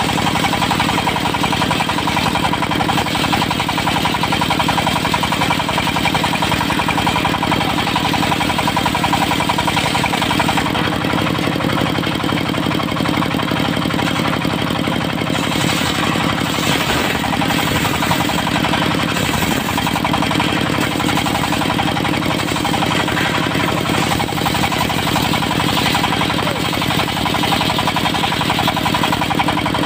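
Diesel-driven portable circular sawmill running steadily with a fast, even engine beat and a steady blade hum; the higher tones brighten for a while in the middle and again near the end.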